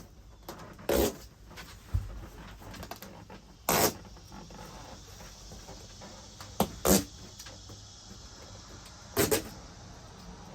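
Backing covers being peeled off adhesive fastening strips for a Bedrug bed liner: about five short tearing rasps a second or more apart, with a dull thump about two seconds in.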